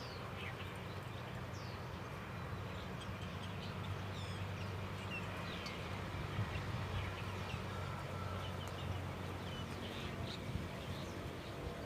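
Wild birds chirping, with many short scattered calls and quick downward-sliding notes, over a steady low background rumble.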